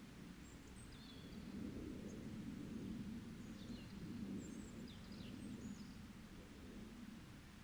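Faint, scattered short high chirps of small songbirds over a low, steady rumble of outdoor ambience.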